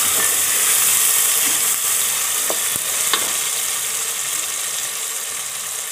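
Onions, tomatoes and green chillies sizzling steadily in hot oil in a metal pot, the hiss slowly dying down. A wooden spatula stirs them, knocking and scraping against the pot a few times around the middle.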